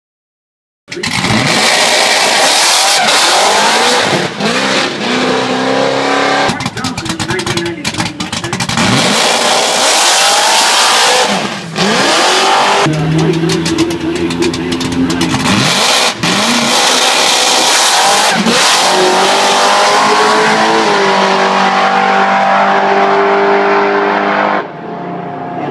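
Supercharged 363-cubic-inch Mustang drag-race engine at full throttle on test passes, its pitch climbing again and again through the gears with abrupt breaks between the climbs. The sound drops off near the end.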